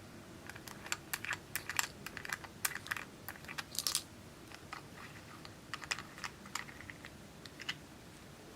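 Clear slime being worked by hand, giving a quick run of sharp sticky clicks and pops that thins out about halfway through.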